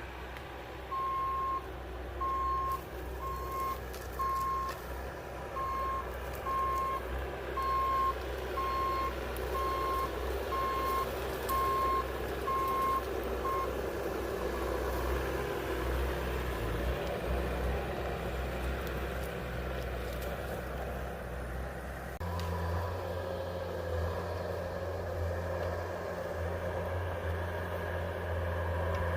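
A vehicle's backup alarm beeping about once a second over a running engine, stopping about halfway through. Later the engine note changes and a stronger low hum holds to the end.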